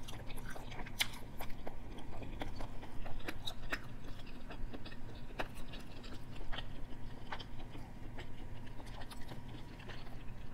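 Close-miked chewing of teriyaki chicken, sautéed okra and shrimp, with many small wet mouth clicks throughout.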